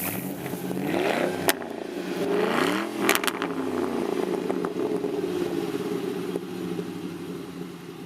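Straight-piped 1999 Ford Mustang GT 4.6-litre V8, mufflers deleted, running and revving: the pitch rises and falls twice in the first three seconds, with a sharp crack about a second and a half in and another about three seconds in, then it settles into a steadier drone.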